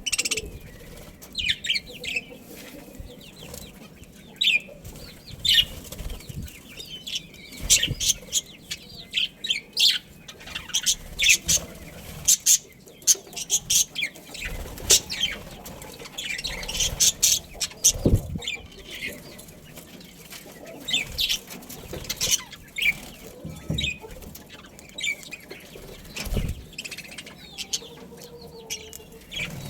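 Budgerigars chirping and chattering in quick, high, overlapping calls, with wings fluttering and a few low thumps.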